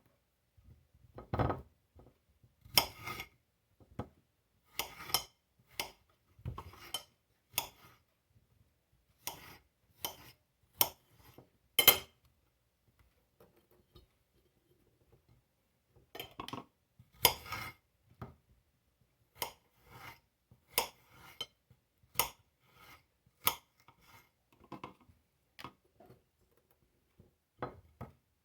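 Irregular clinks and knocks of a glass pickle jar and kitchen utensils being handled as the jar is packed with cucumber spears, with a pause of a few seconds about halfway through.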